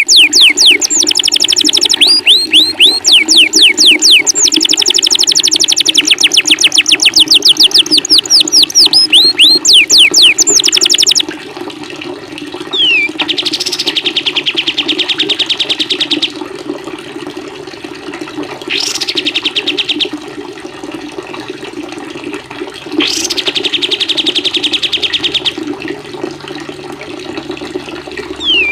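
Songbird recordings over a steady wash of running water. For about the first eleven seconds one bird sings a loud, fast string of repeated high down-slurred notes. After that a softer bird gives separate rapid trills of two or three seconds each, several of them led by a short falling whistle.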